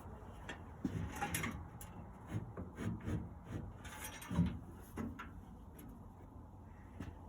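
Irregular knocks, clicks and scrapes of metal smoker parts being handled and fitted back together, with a louder knock about a second in and another a little after four seconds.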